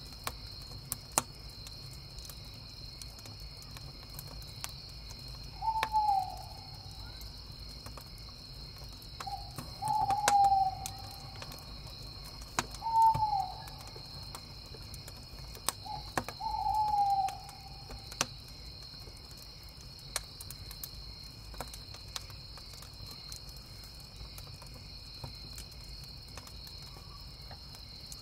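An owl hooting four times, about three seconds apart, each hoot short and dropping in pitch. Under it, crickets chirp steadily and a wood campfire crackles with scattered sharp pops.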